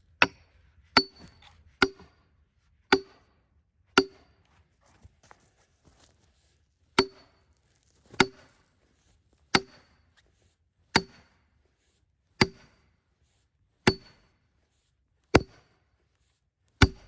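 A hammer striking a steel splitting wedge driven into a cedar log, thirteen hard blows about one to one and a half seconds apart, each with a short metallic clang. The steel-on-steel blows are striking sparks.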